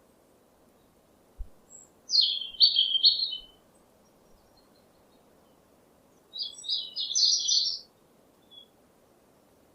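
A songbird singing two short, rapid, high-pitched phrases, each about a second and a half long and a few seconds apart.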